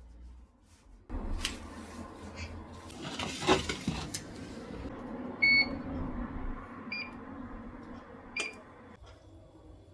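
Electronic beeps from a kitchen or household appliance: one longer beep about halfway through, then two short beeps, amid handling and clattering sounds.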